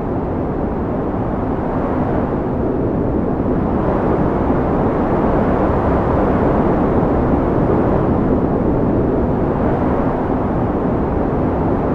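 Strong wind blowing steadily as a deep rushing noise, swelling a little in the middle.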